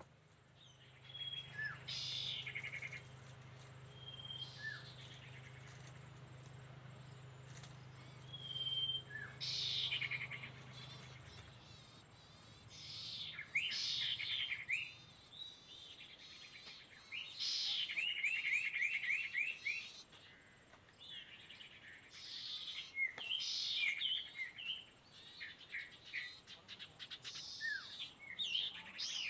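Sirtu songbird calls: repeated short chirps, quick sweeping whistles and rapid trills in separate phrases, the calls used to lure this territorial bird. A low steady hum underlies the first part and stops about a third of the way in.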